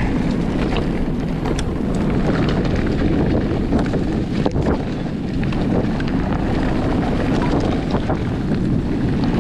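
Wind buffeting a GoPro action camera's microphone: a steady, loud, low rumble, with scattered light clicks and rattles.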